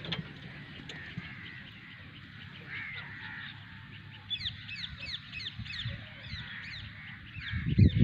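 Birds calling: a run of quick, falling chirps, about three to four a second, starts about halfway through over a steady background of chirring. A loud low rumble comes in near the end.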